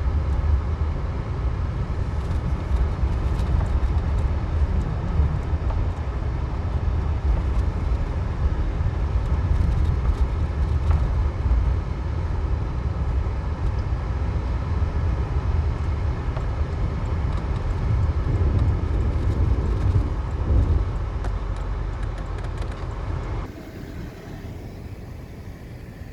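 Car driving on snow-cleared streets, heard from inside the cabin: a steady low rumble of engine and tyre noise that drops off sharply near the end.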